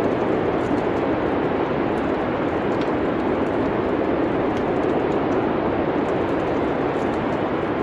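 Steady rushing wind noise of a winter storm, with faint small crackles of a wood fire scattered through it.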